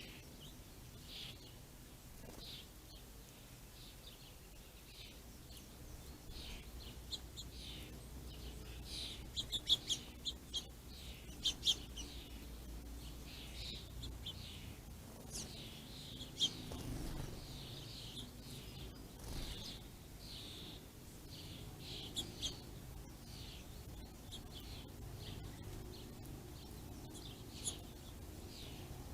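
Small songbirds chirping and calling in a steady stream of short chirps, busiest about a third of the way in and again around the middle, over a faint low background rumble.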